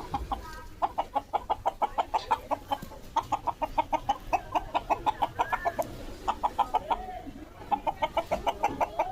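Aseel chickens clucking in long runs of short, quick clucks, about seven a second, broken by brief pauses.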